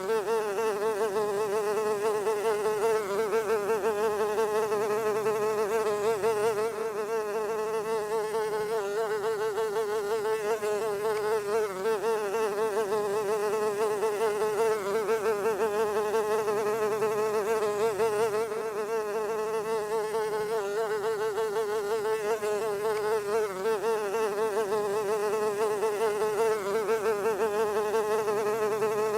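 A fly buzzing continuously: a steady drone whose pitch wavers slightly up and down.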